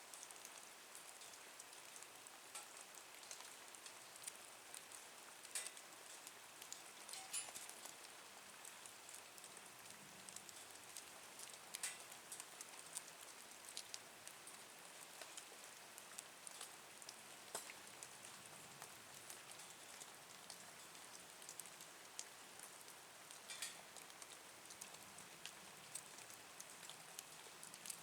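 Wood fire burning in a small nature stove: a faint steady hiss with scattered sharp crackles and pops, a handful of them louder.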